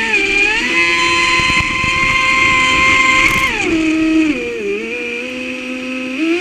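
Traxxas Spartan RC boat's brushless electric motor whining, its pitch following the throttle: it climbs about a second in, holds, then drops back and rises again near the end.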